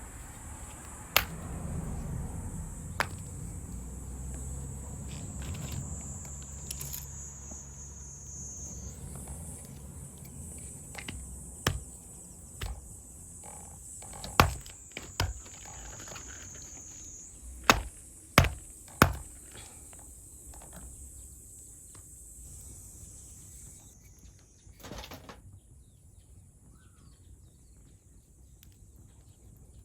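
Insects calling steadily at high pitch, with a scattering of sharp wooden knocks, several of them close together around the middle.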